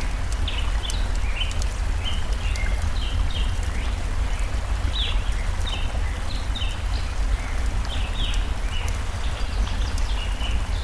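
Birds chirping in many quick, short notes over the steady rush of a flowing stream, with scattered sharp crackles from a burning campfire.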